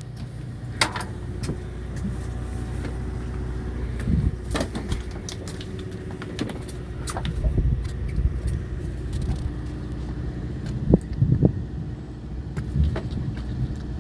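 A fishing boat's engine runs with a steady low rumble. Scattered clicks and knocks sound through it.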